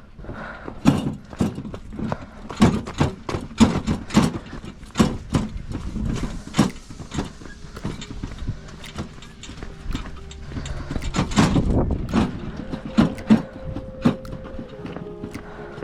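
Irregular sharp knocks and clatter, about two to three a second; steady musical tones come in near the end.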